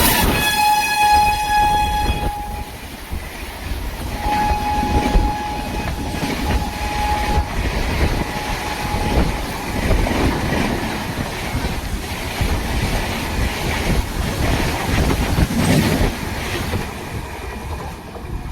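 Train horn sounding for about two and a half seconds, then again more faintly from about four to seven seconds in, over the steady rumble and clatter of a train's wheels on the rails as it runs past; the wheel noise drops away near the end.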